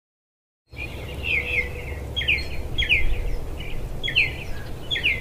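A bird calling over and over in short, downward-slurred chirps, often in pairs, about one call a second, over a low steady rumble of outdoor background noise. The sound starts suddenly under a second in.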